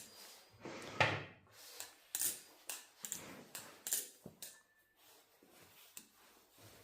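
Irregular metallic clicks and clacks from the XDYY Kraken V3 steel balisong being handled, its handles knocking together, louder in the first few seconds and fainter after.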